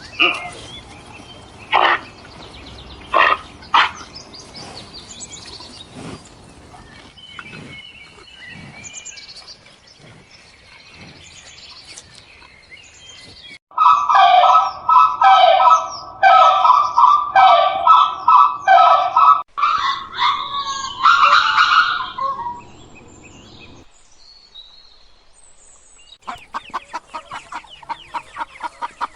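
A succession of different animal calls, bird calls among them: a few sharp calls, faint chirping, then a loud run of about a dozen evenly spaced pitched calls and a longer call, and near the end a fast string of short pulses.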